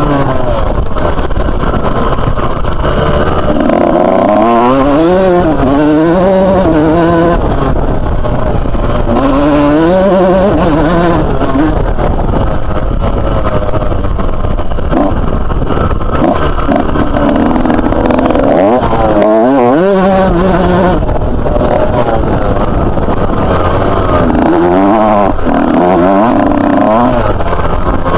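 Two-stroke motocross bike engine revving hard and backing off again and again, its pitch climbing and dropping as the rider accelerates, shifts and slows.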